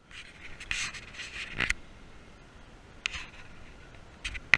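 Rubbing and scratching noise in uneven bursts, with a couple of sharp clicks near the end.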